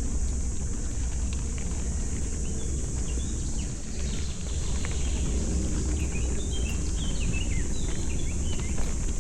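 Steady low wind rumble on the microphone of a moving bicycle, with small birds chirping in short quick notes through the second half.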